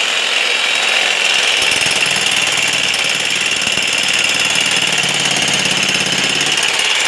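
Handheld electric demolition hammer running steadily, its rapid blows blending into one continuous hammering as it breaks through masonry.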